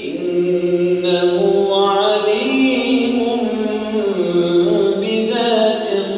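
A man reciting the Quran aloud in a melodic chant, his voice holding long notes that bend slowly up and down, with a short breath pause near the end.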